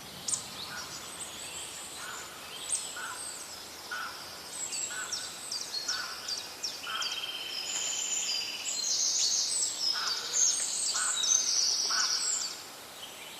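Several songbirds singing at once: quick high chirps and falling whistles, with a short buzzy trill about seven seconds in. The song grows busier and louder from about eight seconds in, then thins out near the end.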